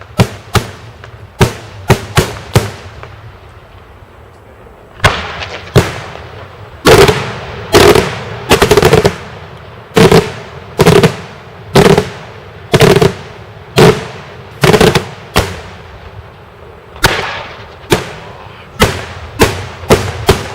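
Daytime fireworks: a long volley of loud, sharp bangs from exploding shells, about one a second, with a short lull about three seconds in and the loudest, closest run of bangs from about seven to fifteen seconds in.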